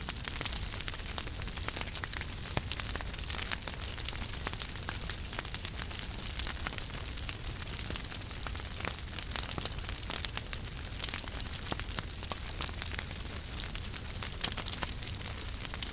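Fire in a fireplace crackling steadily: many small irregular pops and snaps over a soft hiss, with a low rumble underneath.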